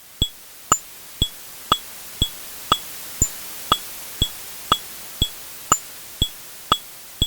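Washing machine giving sharp clicking ticks at an even pace of about two a second, each with a brief high-pitched ring, over a steady hiss.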